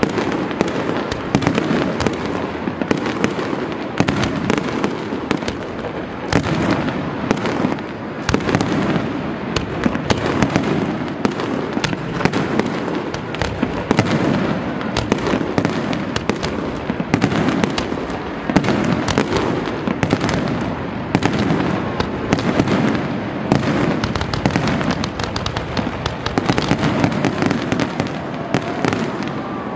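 Fireworks display: aerial shells and rising comets going off in rapid, overlapping bangs and crackling, with no let-up.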